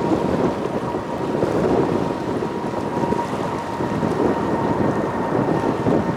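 Boeing 777 freighter's GE90 jet engines at takeoff power as it climbs out, a steady noise of even loudness, with wind buffeting the microphone.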